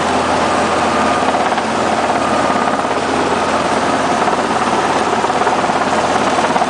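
Helicopter engine and rotor running steadily, a loud, even drone with no change in pitch.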